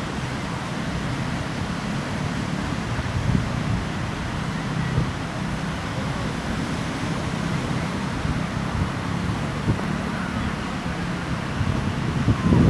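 Wind buffeting the microphone over sea waves washing onto a beach: a steady, low rumbling noise.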